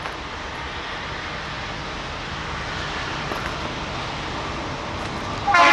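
Steady rumble of an approaching CSX freight train. About five and a half seconds in, the lead diesel locomotive's multi-tone air horn starts loudly.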